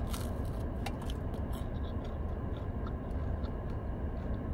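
Biting into and chewing a breadstick, with sharp mouth clicks mostly in the first second and a half, over a low steady rumble.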